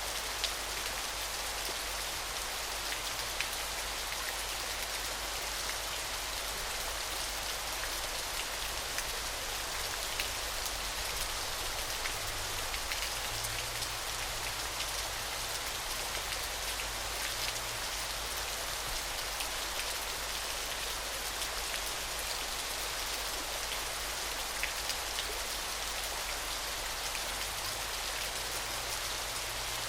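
Falling water splashing in a steady hiss, with many small drop-like ticks.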